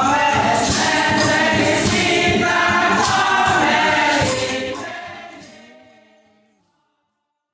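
Choir singing with music, fading out over a couple of seconds near the end.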